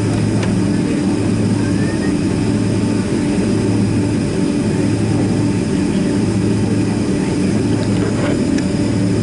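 Boeing 767-300ER's twin turbofan engines running steadily, heard inside the cabin as an even drone with a low hum and a faint high whine.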